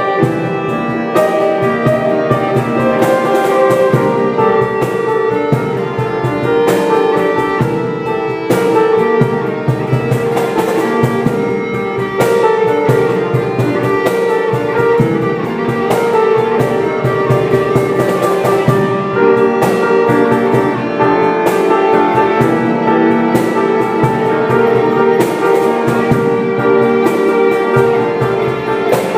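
Instrumental band passage with no vocals: guitar playing over a drum kit keeping a steady beat.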